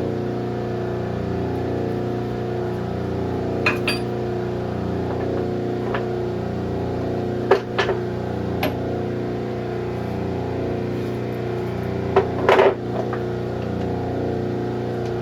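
Hydraulic rim-bending press running with a steady hum while it loads an aluminium wheel rim, with a few sharp clicks and knocks from the metal and tooling, the loudest cluster about three-quarters of the way through.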